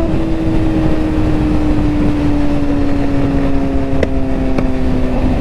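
Engine droning at a steady, slowly sagging pitch over heavy wind and road rumble, with two sharp exhaust pops about four seconds in, a half second apart.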